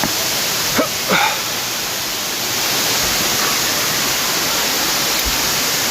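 Steady rushing water of a waterfall, an even hiss. About a second in, two short calls glide down in pitch.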